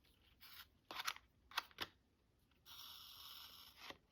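Faint paper and card being handled during hand sewing: a few short taps and scrapes, then a steady rasp of a little over a second as thread is drawn through a punched hole in the paper.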